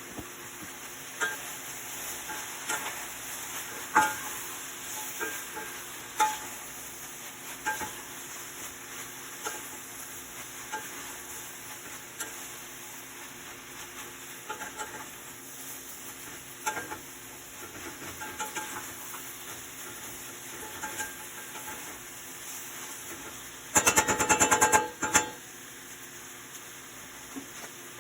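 Food frying in a pan with a steady sizzle, and a cooking utensil stirring and knocking against the pan every second or two. About 24 seconds in there is a short burst of rapid clattering, the loudest sound here.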